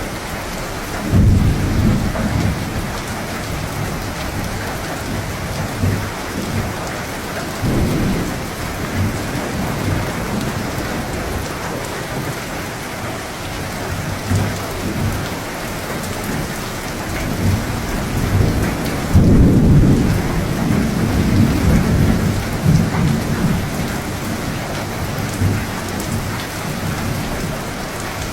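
Steady rain with rolling thunder. Low rumbles swell about a second in and again around eight seconds, and the loudest peal rolls in about nineteen seconds in and rumbles on for several seconds.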